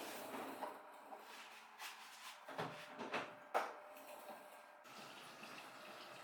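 Irregular knocks and scrapes of parts being handled, the sharpest knock about three and a half seconds in, giving way to a steady faint hiss near the end.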